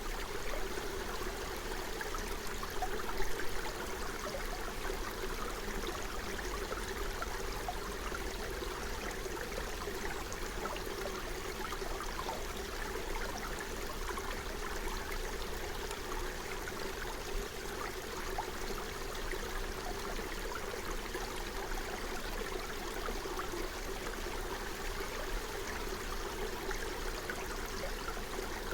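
Forest stream flowing, a steady continuous babble of running water.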